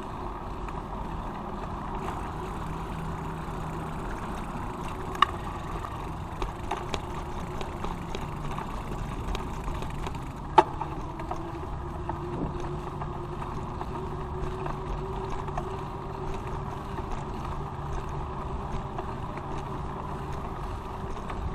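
Bicycle riding along a street: steady rolling and road noise with a low hum underneath, broken by small clicks and two sharp clicks about five and ten seconds in.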